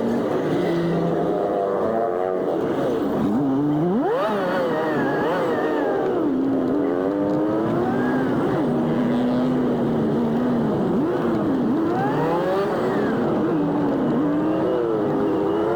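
Jeepney engine and road traffic played at four times speed, so the engine note is pitched up and rises and falls quickly, again and again, as the jeepney speeds up and slows down.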